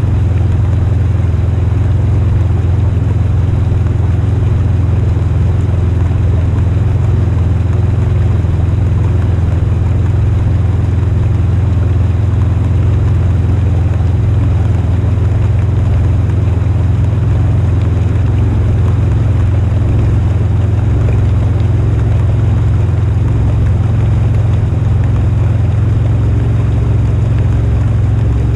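Polaris RZR High Lifter 1000 side-by-side engine running steadily under way, a loud low rumble.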